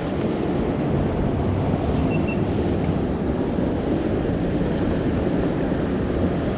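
Steady rush of fast-flowing river water running through a rapid.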